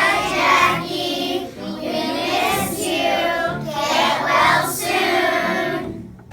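A group of children singing a song together over an instrumental accompaniment that holds low notes beneath the voices.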